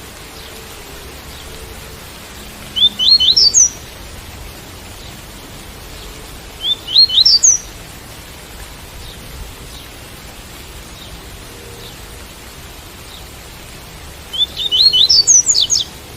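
Double-collared seedeater (coleiro) singing the tui-tui song: three short phrases of quick rising notes, the last one the longest, over a steady hiss of rain.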